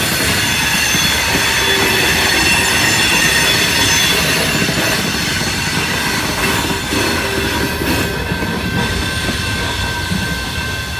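Freight train cars rolling past, wheels squealing in several steady high tones over the continuous rumble of wheels on rail.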